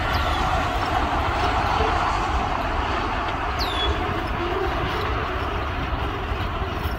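An Escanaba and Lake Superior freight train of empty boxcars rolling away down the track, its steel wheels on the rails making a steady rumble.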